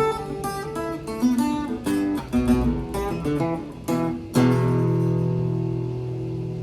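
Guitar playing quick picked notes, then a final chord struck about four seconds in that rings out and slowly fades.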